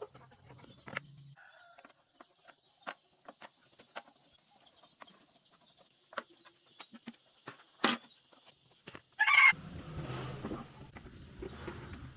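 Scattered light clicks and knocks. About nine seconds in there is one short, loud call, and a low hum sets in right after it.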